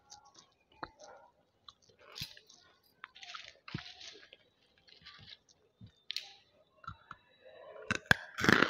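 Crunching and chewing of banslochan (tabasheer, the hard chalky silica lumps from bamboo), heard close to a headset mic at the mouth: a scatter of small crisp crunches, with a louder bite about eight seconds in.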